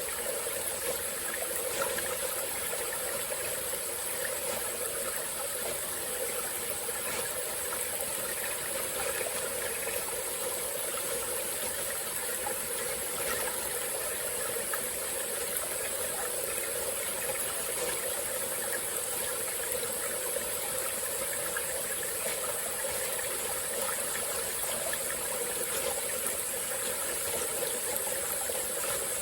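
Small tropical-forest stream flowing and trickling steadily over a constant, high-pitched buzz of insects.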